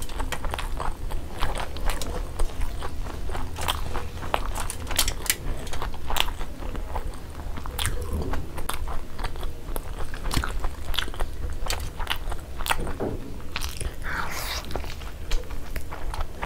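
Close-miked chewing of sunny-side-up fried eggs with a full mouth: many quick wet clicks and smacks, with another bite taken near the end.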